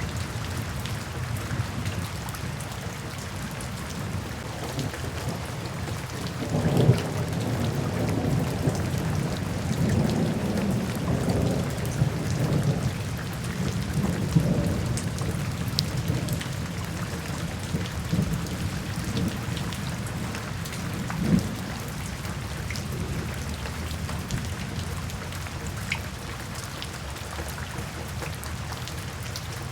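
Steady rain falling, with a low rumble of thunder rolling in about six seconds in and dying away over the following ten seconds or so.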